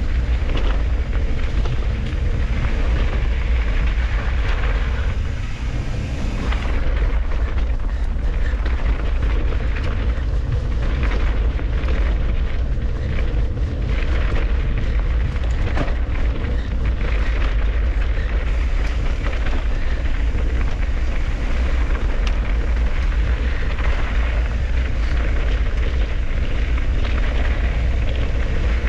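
Wind buffeting the microphone of a camera on a moving mountain bike, a constant deep rumble, mixed with tyre noise and the bike's rattles and knocks over rough trail.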